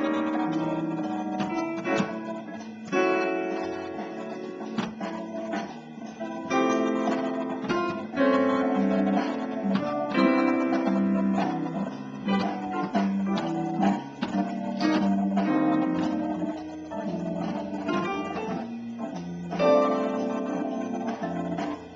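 Instrumental jazz: a solo instrument playing chords and single-note lines over a play-along backing track, with notes changing every fraction of a second.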